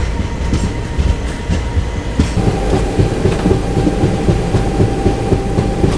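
Passenger train running on the rails as it pulls away from a station: a steady low rumble with irregular wheel clicks, and a faint steady tone joining about two seconds in.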